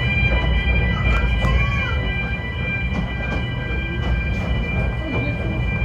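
Snowdon Mountain Railway rack train running, a steady low rumble with a constant high whine above it and a few light clicks.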